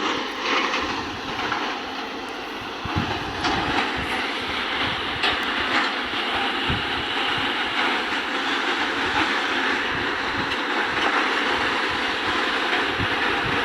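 Caterpillar 320D hydraulic excavator running, a steady, noisy machine sound with scattered low thumps.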